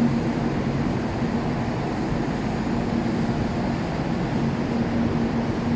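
Steady background noise of a large airport terminal hall, with a faint steady hum underneath.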